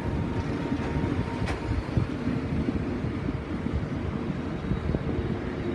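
Low rumble of a train beside the platform with a faint steady hum, and wind buffeting the microphone.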